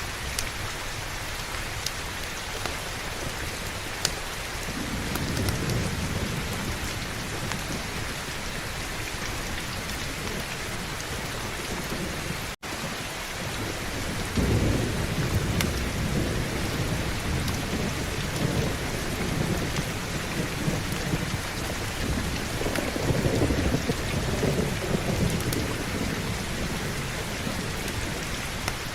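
Heavy steady rain with rolls of thunder rumbling low under it, swelling a few seconds in and again through the second half. The sound cuts out for an instant near the middle.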